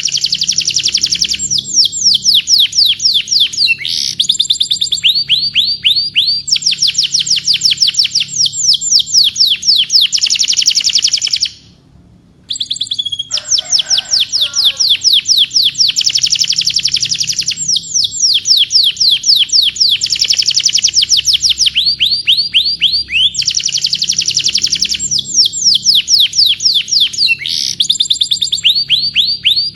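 Domestic canary singing long, rapid trills of high notes repeated many times a second, changing from one run of notes to the next, with a short break about halfway through.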